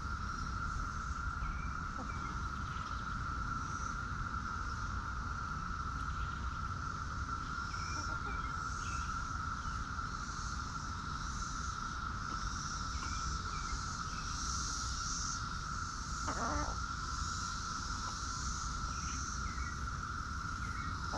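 Outdoor insect chorus: a steady high drone with a pulsing, higher buzz over it. Small chirps are scattered through, and a single short, louder call comes past the middle.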